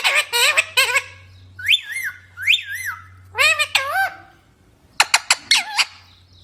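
Pet rose-ringed parakeets calling: a run of short squawks and whistled calls that rise and fall in pitch, several in quick succession, with a brief lull about four seconds in.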